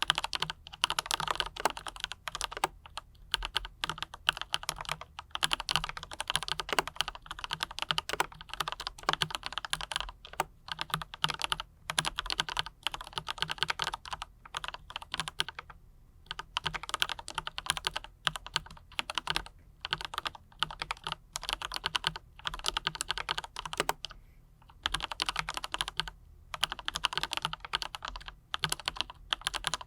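Mechanical keyboard with Autumn Rain switches and PBT double-shot keycaps being typed on, a fast run of key clicks broken by a couple of short pauses.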